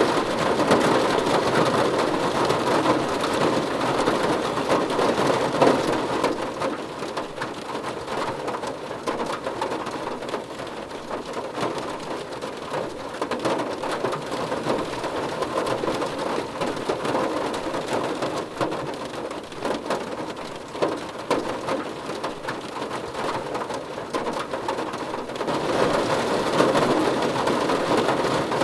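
Steady rainfall, a dense even hiss that eases off a little after the first several seconds and grows heavier again near the end.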